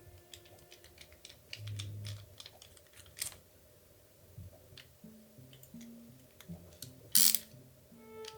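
Background music with a stepping melody, over scattered small clicks and taps of kit parts being handled during assembly, with a louder clatter about three seconds in and another about seven seconds in.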